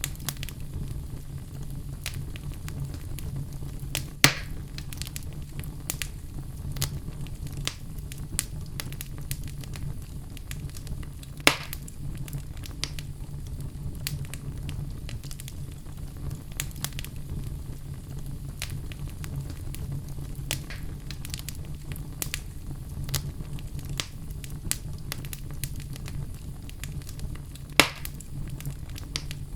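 Wood fire in a fireplace crackling, with a steady low rumble of flames under scattered small snaps. Three louder pops come at about four, eleven and a half, and twenty-eight seconds in.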